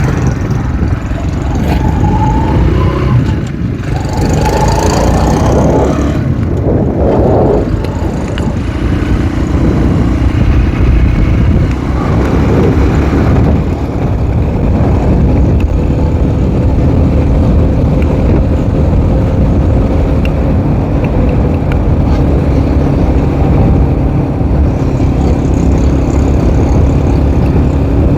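K Moto ATX dirt bike's engine running under load as it sets off and climbs, the revs changing over the first several seconds and then holding steadier.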